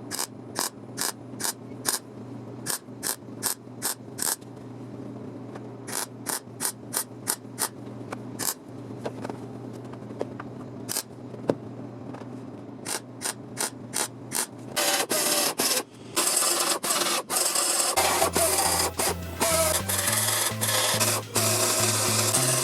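Runs of short, rhythmic scraping strokes of a hand tool, such as a file, working a sheet-metal panel, with pauses between runs. Music comes in near the end.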